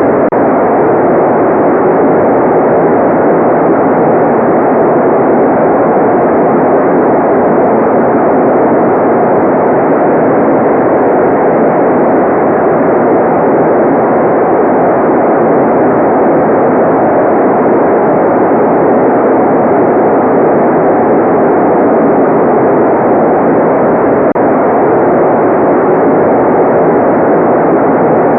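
Continuous white noise played for relaxation: an even, unchanging rush, dull and muffled rather than hissy, with most of its weight in the low middle.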